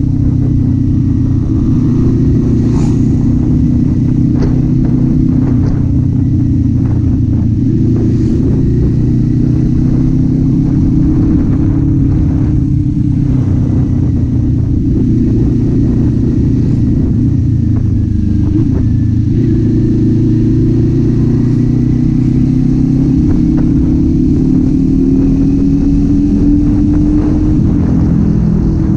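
Kawasaki Z400's parallel-twin engine running while riding, its pitch rising and falling gently as the throttle changes.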